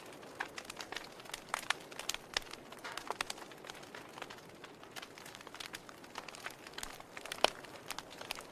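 Wood fire in a fireplace crackling, with irregular sharp pops and snaps over a soft hiss; one louder pop near the end.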